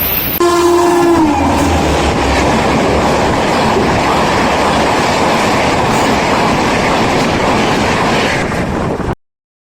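A high-speed train passing at speed: its horn sounds briefly and drops in pitch, then comes the steady rushing noise of the train going by, which cuts off suddenly near the end.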